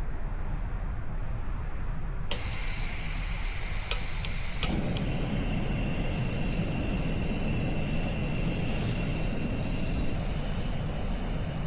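A steady hiss starts abruptly about two seconds in, with a few sharp clicks, then a fuller rushing noise joins it and runs on steadily.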